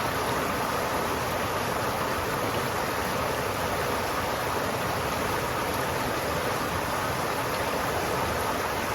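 River water flowing steadily: a continuous, even rushing.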